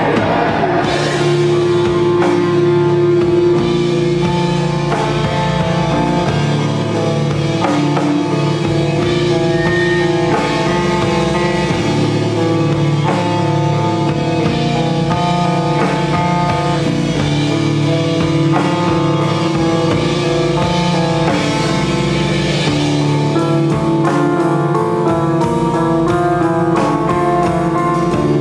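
Live instrumental rock band playing: electric guitar over a drum kit, a steady, dense passage of sustained guitar notes and regular drumming.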